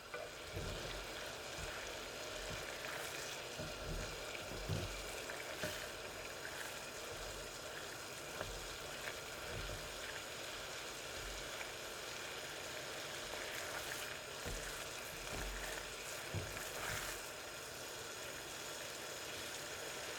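Close-miked food preparation for a strawberry cream cake: a continuous soft crackling, stirring noise with a few soft knocks.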